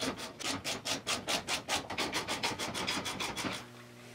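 Fast rhythmic rasping, about six strokes a second, as the bearing puller is worked to draw the rear hub bearing off the axle shaft; it stops about three and a half seconds in.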